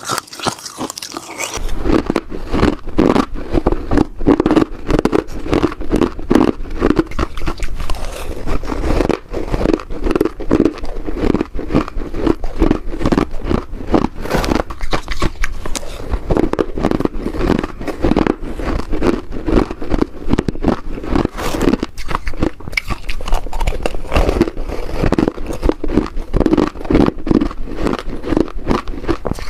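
A person biting and chewing ice: a continuous run of rapid, irregular crunches.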